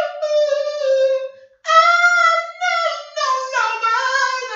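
A single high voice singing long held, wavering notes with no accompaniment, pausing for breath about a second and a half in before singing on.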